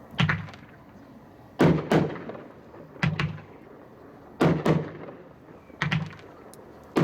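Two identical 500-gram, 12-shot consumer firework cakes firing at the same time. The sharp bangs come in close doubles, about six pairs spaced roughly a second and a half apart, each with a short echoing tail.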